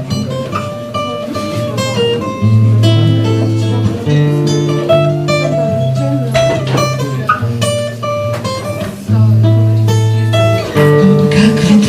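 Acoustic guitar strumming chords in an instrumental break between sung verses, the chords changing every second or two.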